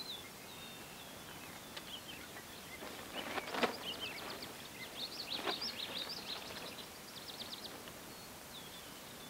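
Birds chirping and trilling in the background outdoor ambience, with a few faint clicks from hands handling the rifle.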